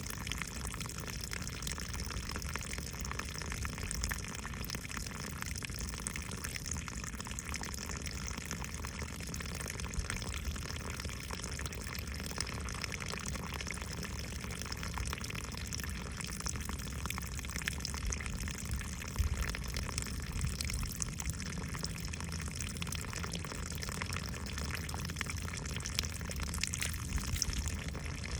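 Water running steadily, a continuous even rush with fine splashes and drips throughout.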